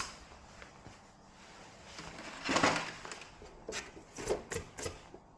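Handling noises of objects being moved about: a sharp click, a louder scraping rustle about two and a half seconds in, then a quick run of light knocks.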